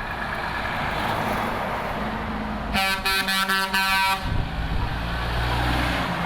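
Truck air horn sounding a quick series of short blasts, lasting about a second and a half, about three seconds in. Passing trucks' engines and tyre noise run throughout, with a steady low engine drone after the horn.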